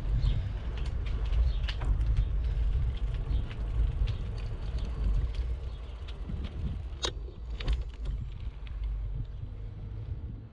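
Bicycle riding heard from a GoPro: low wind rumble on the microphone with tyre noise, and scattered clicks and rattles from the bike, with a sharper clack about seven seconds in and another just after.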